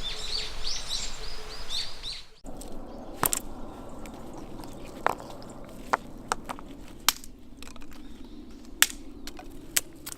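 Small birds chirping for about two seconds, then an abrupt cut to a wood campfire burning, with scattered sharp pops and crackles over a low steady background.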